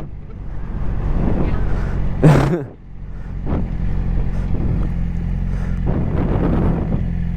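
Yamaha R6 sport bike's inline-four engine idling steadily, with one brief louder burst about two seconds in.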